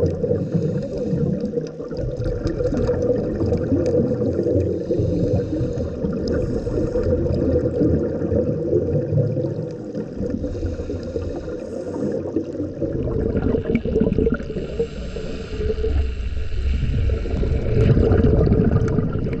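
Muffled water noise as heard underwater: a continuous low churning rush with gurgles, louder and hissier in the last few seconds.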